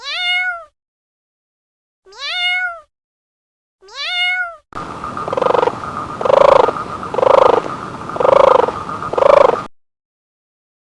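A cat meows three times, each meow rising and then falling in pitch. Then, a little under five seconds in, a frog croaks five times about a second apart over a steady background chorus, which cuts off shortly before the end.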